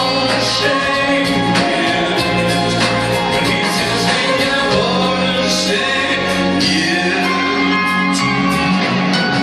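Live pop music: a song sung over a band, with choir-like backing voices and sustained held notes.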